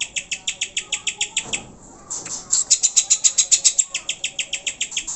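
Greater green leafbird (cucak hijau) giving a fast, even chatter of sharp high notes, about ten a second, with a short break about two seconds in.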